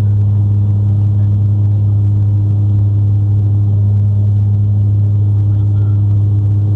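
Airliner engines droning steadily, heard inside the passenger cabin: a strong constant low hum with a few fainter steady tones above it.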